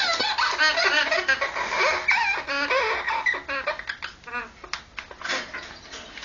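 Red-lored Amazon parrot giving its mating call: a rapid string of short, pitch-bending calls, busiest for the first four seconds and thinning out to a few scattered calls near the end.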